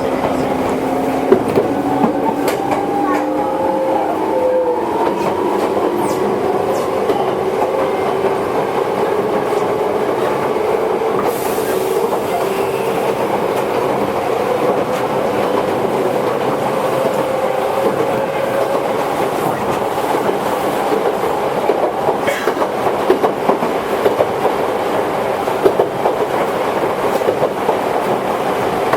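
Toyohashi Railway 1800 series electric train running, its traction motor whine climbing slowly in pitch as the train accelerates over the first twenty seconds or so, then fading into the steady rolling noise. Wheels clack over rail joints throughout.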